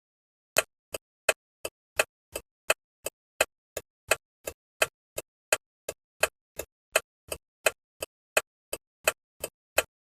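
Turn-signal indicator ticking steadily, about three clicks a second, alternating louder and softer clicks of the flasher going on and off, then stopping just before the end.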